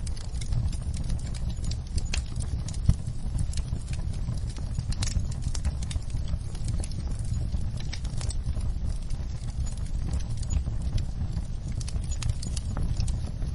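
Wood fire burning in a fireplace: irregular crackles and pops from the logs over a steady low rumble of the flames, with one louder pop about three seconds in.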